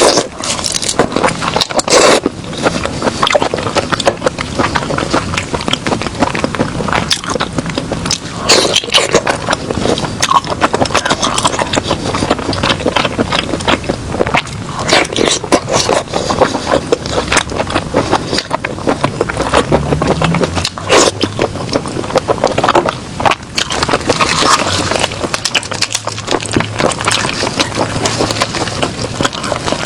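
Close-miked eating of seafood: continuous crunching, chewing and scraping, with many sharp crackles.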